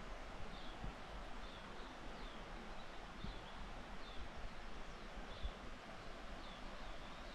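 Forest ambience: a small bird repeats a short, high, downward-slurred chirp about every half second to a second over a steady rushing background.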